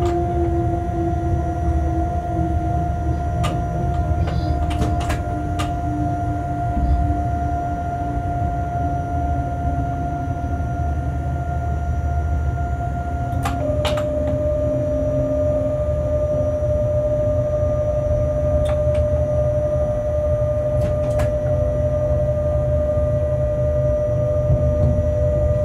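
Freight train running, heard from the locomotive cab: a steady low rumble under a whining tone. The lower part of the whine slowly falls in pitch, and the higher part steps down in pitch about halfway through. A few sharp clicks sound through it.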